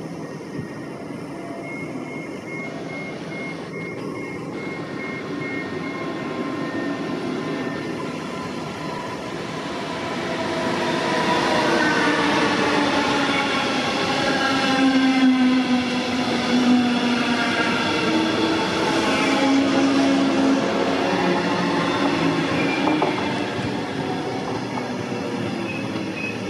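Electric regional trains with double-deck coaches passing close by. A rumble builds over the first ten seconds into a loud run of wheel noise with the drive's whining tones, several of them gliding up and down in pitch.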